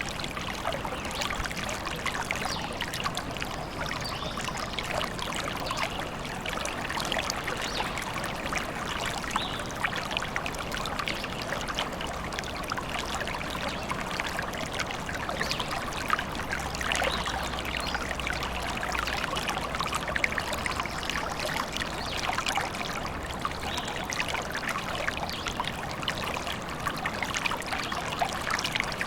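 A small stream trickling and splashing over stones, a steady bubbling flow of water.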